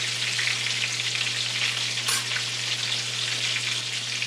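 Battered razor clam pieces sizzling in hot oil in a skillet: a steady, crackly frying hiss over a low hum, with a short click about two seconds in.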